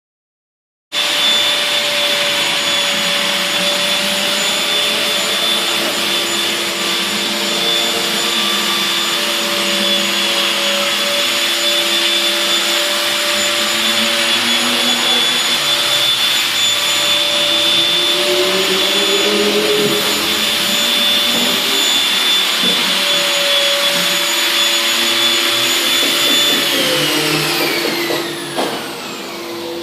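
A vacuum-type electric motor runs steadily with a high whine. Near the end it is switched off and its pitch falls as it winds down.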